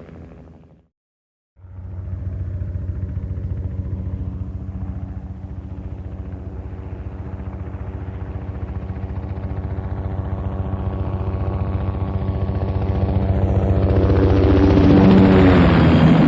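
Helicopter flying, with a steady rotor chop and engine tone. It starts after a second of silence and grows louder until it passes close near the end, where the pitch drops.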